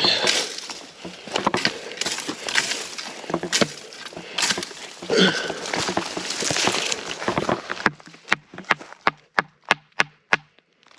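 Footsteps pushing through dry brush, with twigs and dry vegetation crackling and snapping. Near the end the crackle stops and a string of separate sharp clicks follows.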